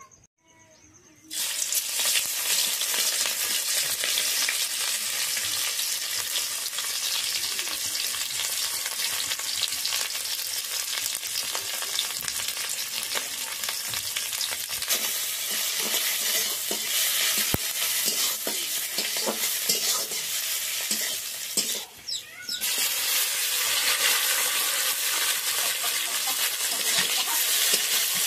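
Sliced onions and vegetables frying in hot oil in a kadai, and being stirred. A loud, steady sizzle starts suddenly about a second in. It dips briefly about three-quarters of the way through, then picks up again.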